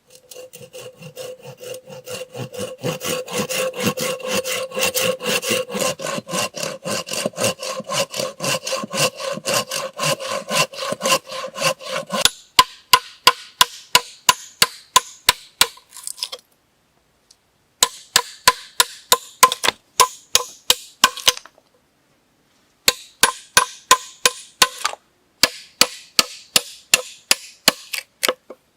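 Wood being cut with a hand saw in quick, even strokes, about three or four a second. The sawing runs without a break at first with a ringing tone under it, then stops and restarts in several short bouts.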